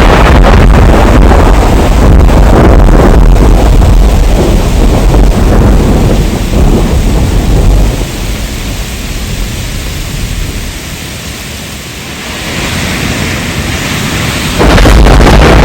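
Heavy rain in a thunderstorm with a loud, long rolling rumble of thunder that dies away about halfway through, leaving the rain's hiss. The rumble builds again, and a fresh loud thunderclap breaks in near the end.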